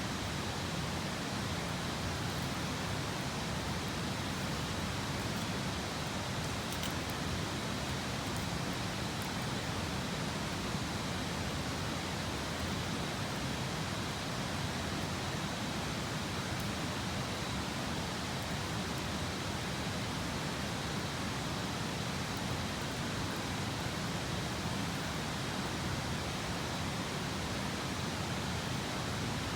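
Steady rushing of a river's flowing water, even and unbroken, with a few faint ticks.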